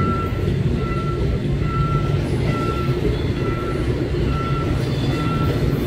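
KTX train rolling slowly through a level crossing with a steady low rumble of wheels on rail. The crossing's warning bell rings as short even tones, a little more than once a second.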